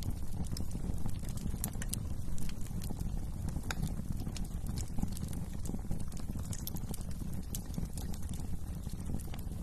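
Wood fire burning in a fireplace: a steady low rumble of the flames with scattered sharp crackles and pops from the burning logs at irregular intervals.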